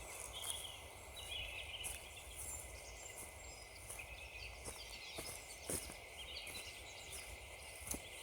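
Footsteps crunching on frozen woodland ground at an unhurried walking pace, with small birds chirping in short calls in the background.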